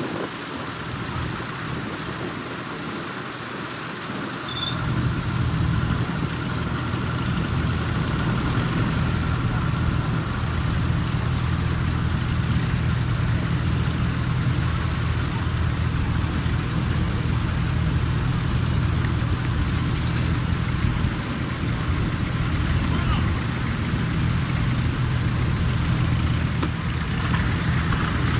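Tractor engine running steadily under load, a deep even hum that comes in louder about four to five seconds in.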